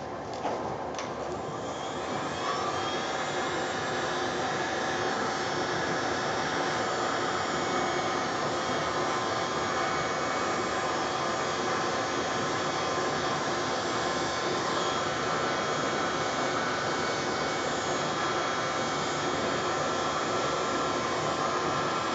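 A small hair dryer used as a blower, starting up after a few clicks and then running steadily as it blows the wet pour paint across the canvas.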